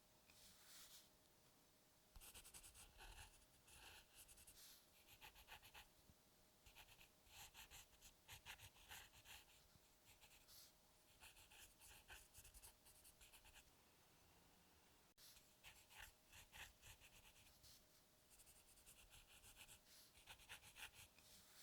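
Close, quiet scratching of a drawing tool on paper: runs of quick sketching strokes with short pauses between them. A faint steady hum sits underneath.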